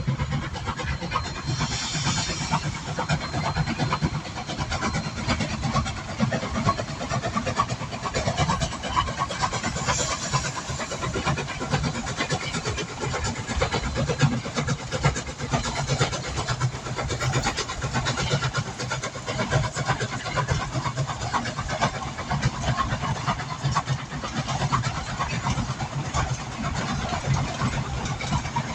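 Durango & Silverton steam train running: a steady low rumble with continuous clatter.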